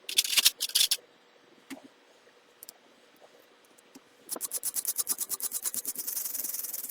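Two short scratchy bursts, then from about four seconds in a fast, even run of scratching strokes, about eight a second, running into a steady hiss near the end: a small brush scrubbing corroded battery contact plates.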